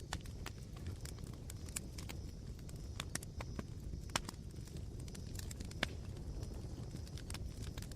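Campfire embers crackling: irregular sharp pops and snaps, a few louder than the rest, over a low steady rumble.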